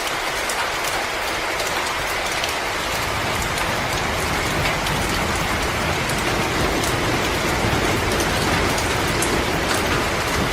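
Wood fire in a fireplace crackling: a steady hiss peppered with many small sharp pops. A low rumble comes up about three seconds in and stays.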